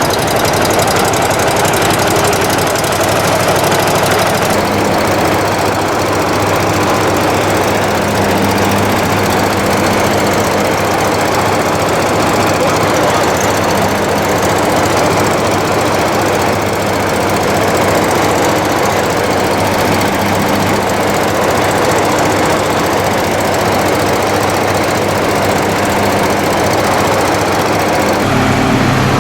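An engine running steadily, with a constant low hum and dense mechanical noise.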